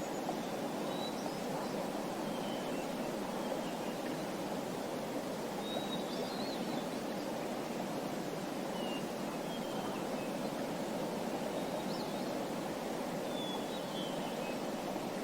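Small birds chirping faintly, a short call every second or two, over a steady rushing background noise.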